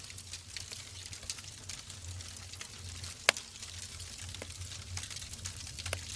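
Wood fire crackling in a fireplace: a steady run of small snaps, with one sharp, much louder pop a little past the middle.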